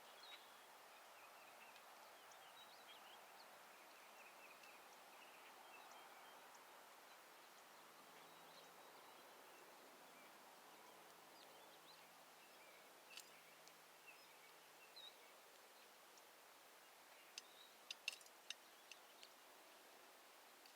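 Faint chirping of small birds over a low hiss, with a quick run of sharp clicks near the end.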